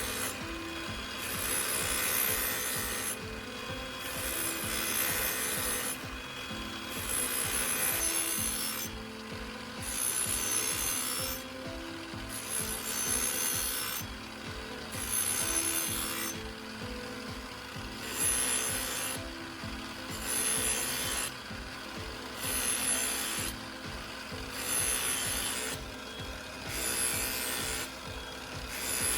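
A knife blade drawn again and again across a spinning cardboard polishing disc with polishing compound on an angle grinder. The sound is a rubbing hiss that swells and falls about every two seconds as each pass is made. This is the final polishing stage, which strips micro-burrs to leave a razor edge.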